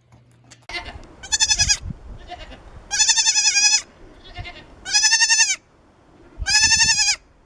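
Goat bleating loudly four times, each call a quavering, wavering note, with fainter bleats in between.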